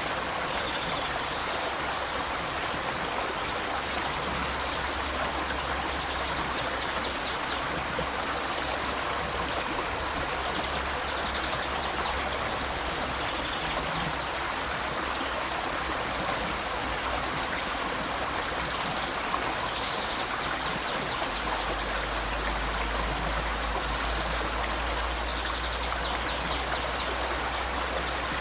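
River water flowing steadily, an even rush with no breaks, over a low steady hum.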